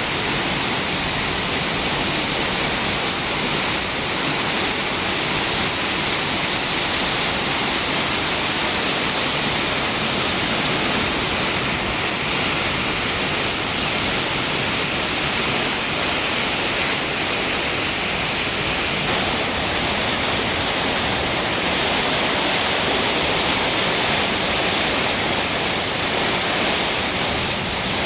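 Heavy tropical rain pouring down in a steady, loud, unbroken hiss.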